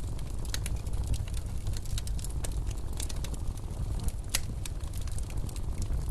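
Wood fire crackling in a fireplace, with irregular sharp pops several times a second, over a steady low rumble of blizzard wind.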